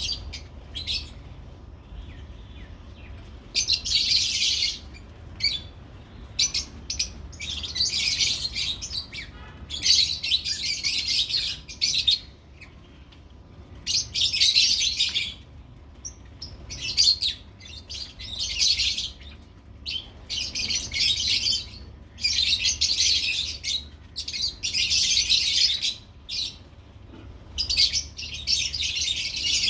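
Lovebirds chattering in repeated bursts of rapid, shrill chirping, each burst a second or two long with short pauses between.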